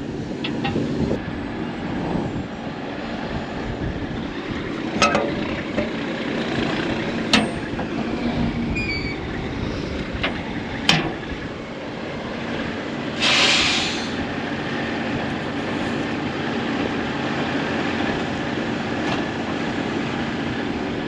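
Steady hum of farm machinery while granular fertilizer is unloaded from a hopper trailer into an air seeder cart's tanks. A few sharp metallic knocks come through, and there is a short hiss of air about 13 seconds in.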